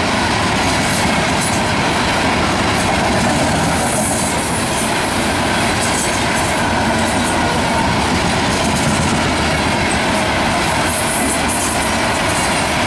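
Canadian National iron ore train's hopper cars rolling past at speed: a steady, loud rumble and clatter of steel wheels on the rail.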